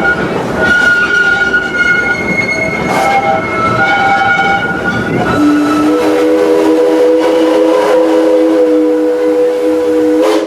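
Train running noise with high squealing tones, then a steam locomotive's multi-chime whistle sounding one long steady blast of about five seconds from halfway through, cut off sharply.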